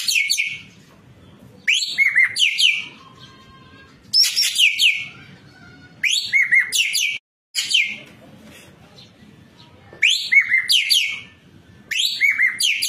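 Racket-tailed treepie (ekek keling) calling in about six loud bursts roughly two seconds apart. Each burst is a quick run of sharp, high notes that sweep steeply downward.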